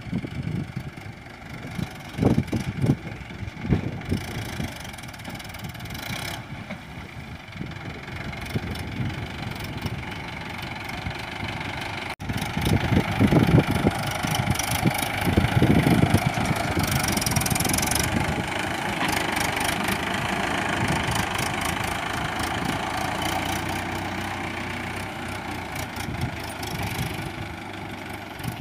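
Tractor diesel engine running. About twelve seconds in, the sound cuts to a louder engine running.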